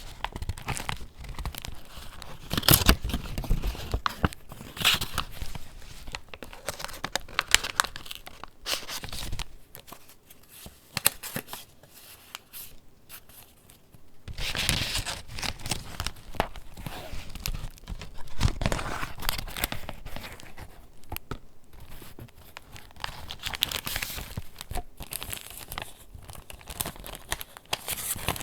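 Paper pages of a handmade junk journal being turned and handled, rustling and crinkling in irregular bursts, with a quieter stretch around the middle.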